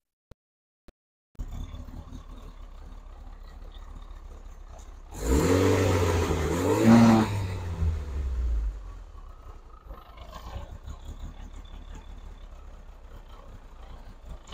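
Turbocharged Nissan SR20DET engine idling, with one rev about five seconds in that climbs and falls back to idle over about three seconds.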